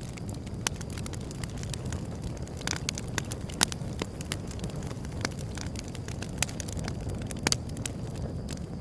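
Wood fire burning with a steady low rumble and irregular sharp crackles and pops, a few of them louder, near the middle and close to the end.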